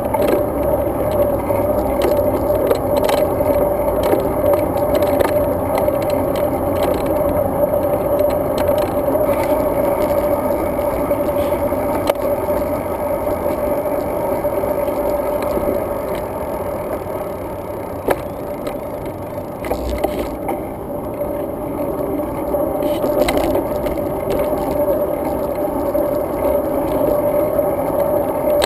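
Steady, muffled riding noise of a road bike under way: tyre rumble, rattle and wind. It eases a little past the middle, with a couple of light ticks.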